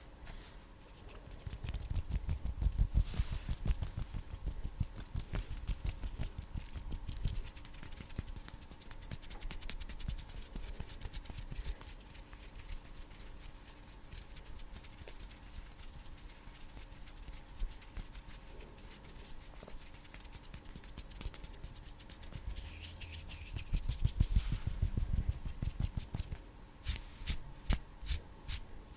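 Bare hands rubbing together and fingers fluttering close to a sensitive microphone: a fast, continuous run of dry skin rustles and small clicks. It grows louder about two to four seconds in and again near the end, with quick sharp snaps in the last couple of seconds.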